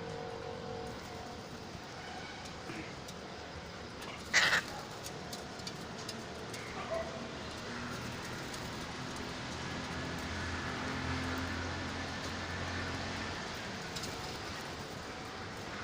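A parrot's single short, sharp squawk about four seconds in, over steady background noise. A low hum swells and fades in the second half.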